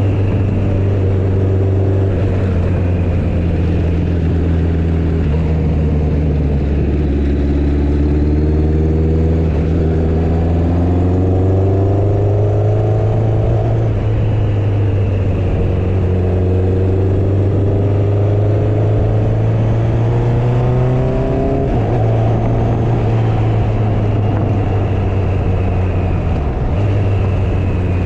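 Motorcycle engine running under way. Its note climbs twice as the bike accelerates, dropping back at a gear change about halfway through and again about three-quarters through.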